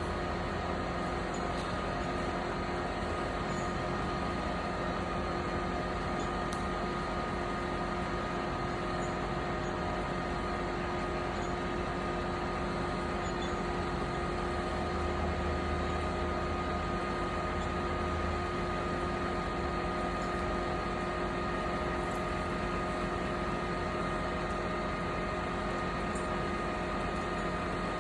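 An engine running at a steady speed: a constant drone with a few steady whines on top, unchanging throughout.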